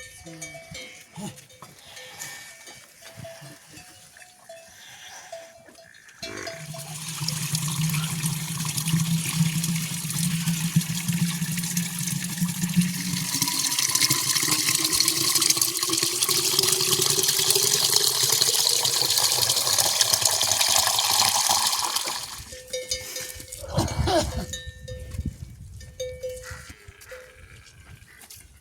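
A loud rush of running water lasting about fifteen seconds, with a tone that rises steadily in pitch underneath it, cutting off suddenly near the end.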